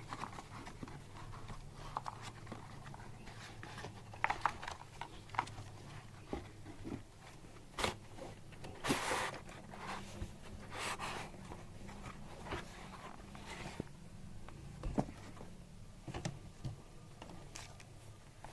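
Irregular clicks, taps and short rustles of a small plastic item and its packaging being handled at close range, over a faint steady low hum.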